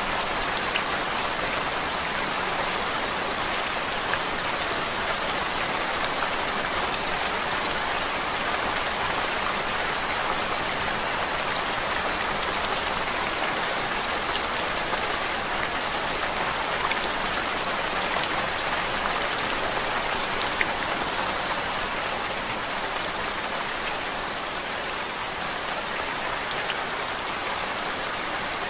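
Steady rain: an even, unbroken hiss with many small drop ticks scattered through it.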